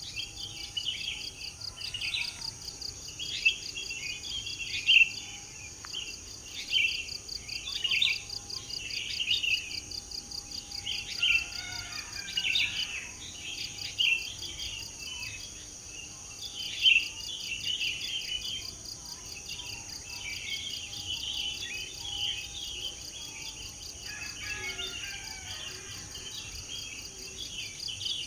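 Birds chirping and singing in short, busy phrases one after another, over a steady, high, pulsing trill of insects.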